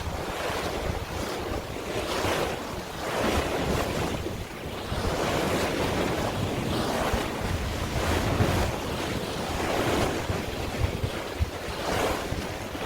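Sea waves washing, with wind buffeting the microphone: a steady rushing noise that swells and eases every second or two.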